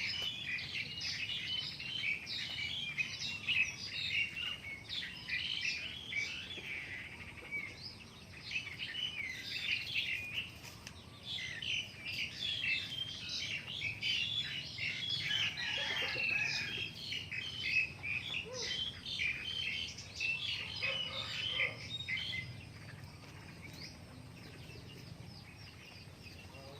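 A flock of birds chirping and peeping, many short high calls overlapping in a continuous chatter that grows quieter over the last few seconds.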